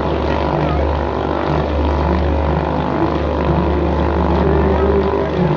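Several motorcycle engines running at once, riding around inside a steel globe of death. Their many overlapping engine notes blend into one loud, steady drone.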